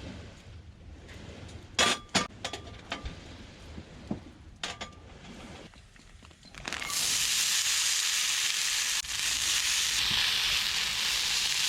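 A few sharp metallic clicks and knocks, then about seven seconds in, food suddenly starts sizzling loudly in a hot pan and keeps frying steadily.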